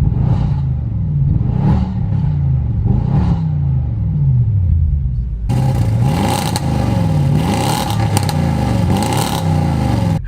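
Audi RS7's twin-turbo 4.0-litre V8 free-revving through an ARMYTRIX valved exhaust and race downpipes, valves closed. The revs rise and fall three times in the first four seconds, then come quicker and brighter from about five and a half seconds in.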